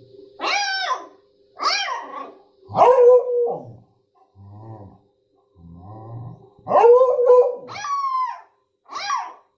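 A dog barking repeatedly: about eight short, high barks that drop in pitch. Two quieter, lower sounds come between about four and six seconds in.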